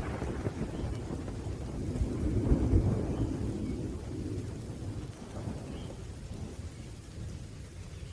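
Thunder rumbling low, swelling to a peak about two and a half seconds in and then slowly dying away, over steady rain.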